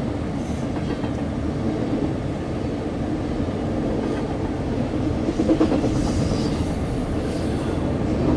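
CSX intermodal freight train rolling past: a steady rumble of wheels on rail with faint clicking, growing a little louder about five seconds in.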